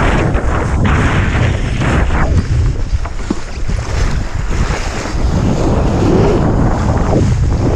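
Strong wind buffeting the microphone in gusts, over rushing, splashing water as a skimboard planes across the surface behind a kite.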